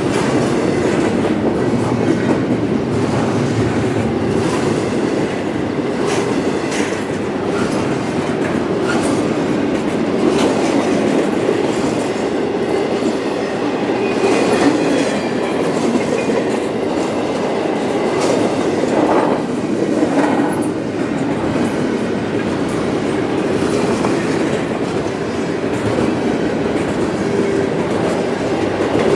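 Well cars of a double-stack container train rolling past, a steady rumble of steel wheels on rail with scattered clicks of wheels over the track.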